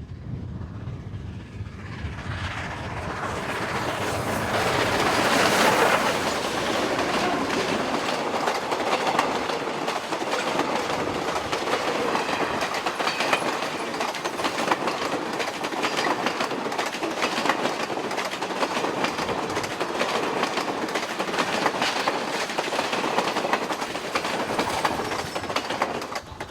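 Steam-hauled passenger train passing, led by ex-Chicago, Burlington & Quincy steam locomotive No. 4960. The sound builds to its loudest about six seconds in, then carries on as a steady rolling clatter of wheels clacking over the rail, with many sharp clicks.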